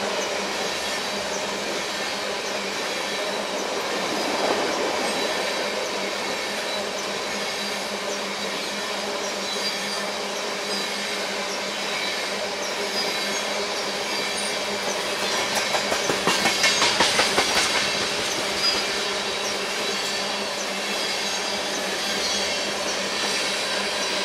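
Tank cars of a freight train rolling past: a steady rumble and hiss of steel wheels on rail, with a faint high wheel squeal. About two-thirds of the way through, a quick run of clacks swells louder for a couple of seconds.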